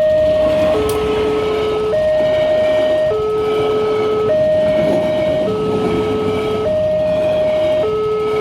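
Railway level-crossing warning alarm sounding its two-tone electronic signal, alternating a higher and a lower tone about every second and a bit. The uploader takes the alarm for an older-version WANTECH unit. A steady rushing noise runs beneath it.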